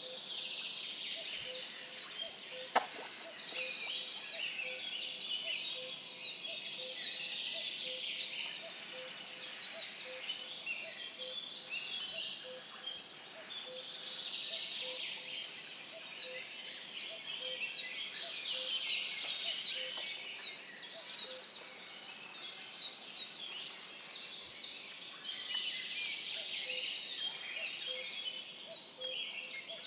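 A songbird singing fast, high phrases of many quick notes, each lasting about four to five seconds, three phrases with pauses between them. Under it, a faint low note pips steadily about once a second.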